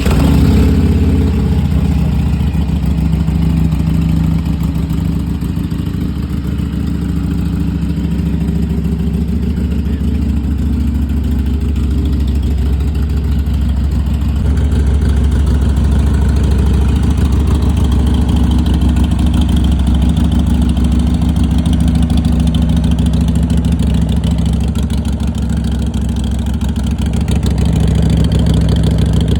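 Harley-Davidson Iron 883's air-cooled 883 cc V-twin, fitted with a loud aftermarket exhaust, starting up suddenly and then running steadily at idle with a deep low rumble.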